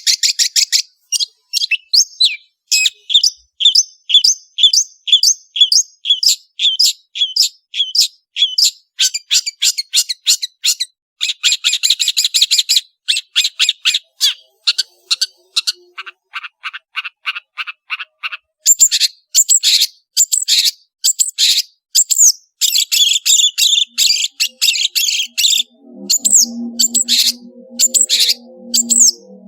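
Long-tailed shrike (cendet) singing loudly: fast runs of sharp, repeated high notes that change from phrase to phrase. Low, steady musical tones come in under the song in the last few seconds.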